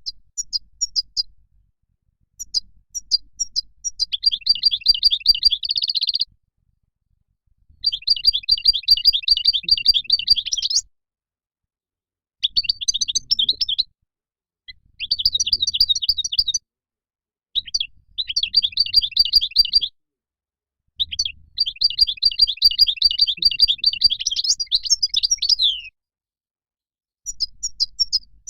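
European goldfinch singing: a run of rapid, twittering song phrases, each lasting from one to about five seconds, with short pauses between them.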